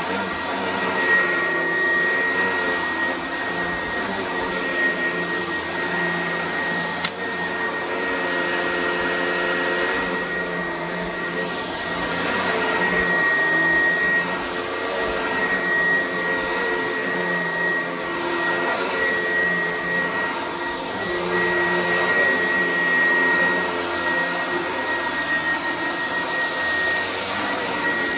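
Upright vacuum cleaner running while it is pushed back and forth, with a steady high whine and a motor pitch that wavers every couple of seconds with the strokes. A single sharp click about seven seconds in.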